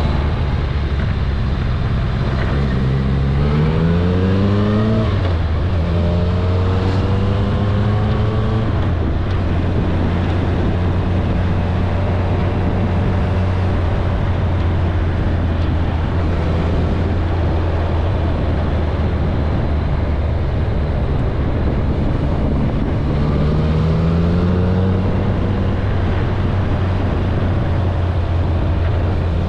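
Kawasaki ZRX1100's inline-four engine pulling the motorcycle along, over wind and road rush. A few seconds in it rises in pitch under acceleration, drops at a gear change and rises again, then settles into a steady cruise. It climbs once more a little after twenty seconds.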